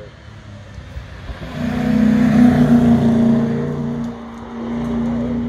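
Hill-climb car engine held at high, steady revs as it climbs past close by, swelling to its loudest about two to three seconds in. Near four seconds the sound drops suddenly and a second car's engine note follows as it rounds a hairpin.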